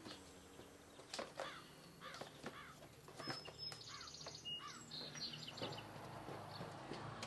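Faint chirping of small songbirds: a string of short, repeated arching chirps about every half second, with a brief rapid twittering song in the middle, over quiet outdoor air.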